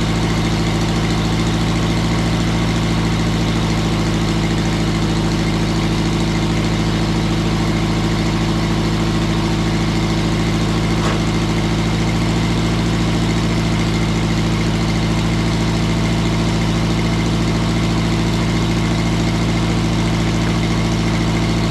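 Mobile Dimension circular-blade sawmill's engine idling steadily, not under cutting load.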